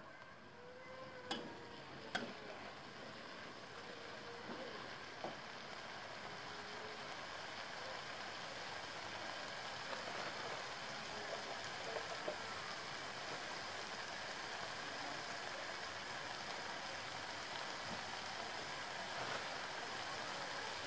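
Sliced bitter gourd sizzling as it stir-fries in a wok: a steady frying hiss that grows slowly louder, with a couple of sharp knocks in the first few seconds.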